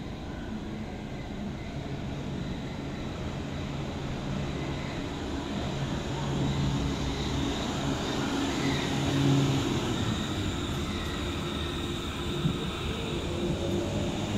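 Hamburg S-Bahn electric commuter train running at a station, a low rumble with a steady electric motor hum that grows louder; a short rising whine near the end.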